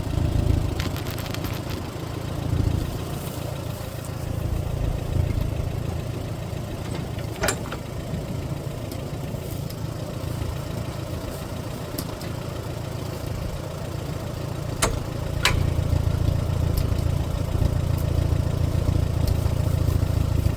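Allis-Chalmers WD-45 tractor engine idling steadily, with a few sharp clicks scattered through it; the engine gets a little louder over the last few seconds.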